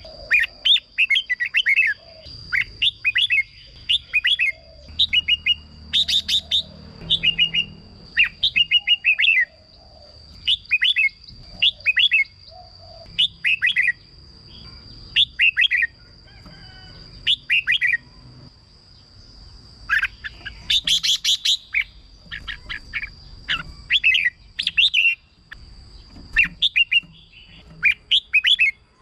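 Red-whiskered bulbul singing: short, quick whistled phrases repeated about once a second with brief pauses. A faint steady high tone runs underneath.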